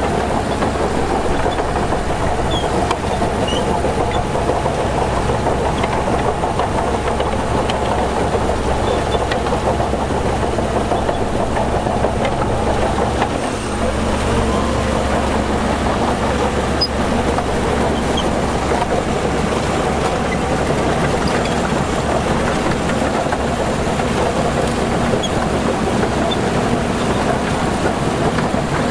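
Heavy earthmoving machinery at work: a diesel engine running steadily with a deep low rumble, easing off briefly about halfway through.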